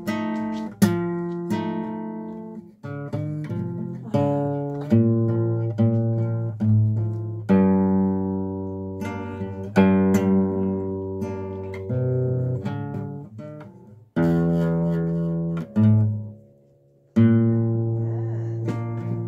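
Acoustic guitar playing a slow instrumental passage of single plucked notes and chords, each note ringing and fading, with a brief break about three-quarters of the way through.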